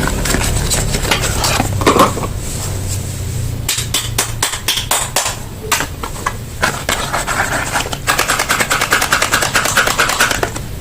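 Soap packaging being handled and opened: wrapper crinkling and crackling in rapid, dense clicks, becoming a faster, more even crackle in the second half.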